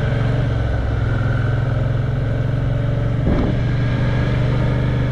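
Suzuki V-Strom motorcycle engine running at a steady, even pitch while riding, with road and wind noise.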